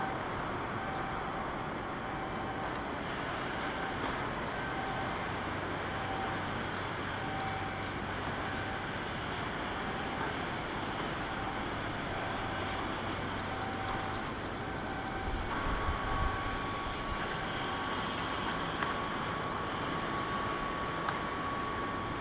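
Steady outdoor background noise of the shipyard area, with a faint beep repeating about once a second, then a steady higher tone for the last several seconds.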